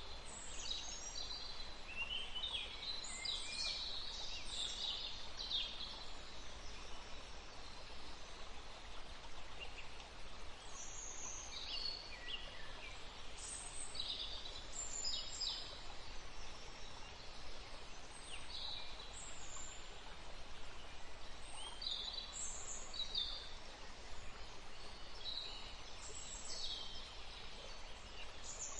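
A woodland stream running steadily, with many short, high bird chirps and calls throughout, busiest a few seconds in.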